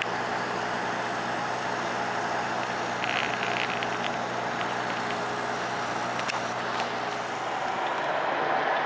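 Steady background noise with a low hum running under it and a few faint clicks, like street traffic or a kitchen extractor.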